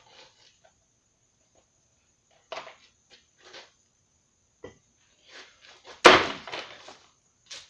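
Blows chopping into a broken space heater's casing: several lighter knocks, then one loud impact about six seconds in followed by a short clatter.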